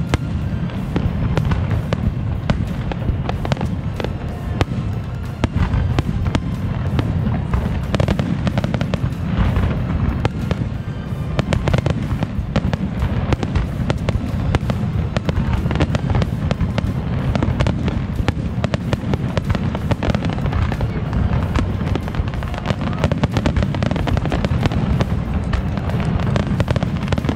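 Aerial fireworks display firing a continuous barrage: many shell bursts banging in quick, overlapping succession with no let-up.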